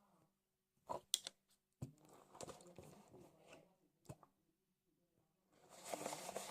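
Slime being squeezed and handled by hand, giving faint crackles and sharp clicks, with a longer rustling burst near the end.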